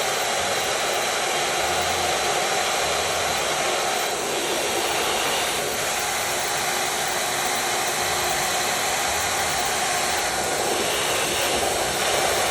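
CNC router running and milling wood: a steady spindle-and-cutting noise whose tone shifts slightly a few times as the tool moves.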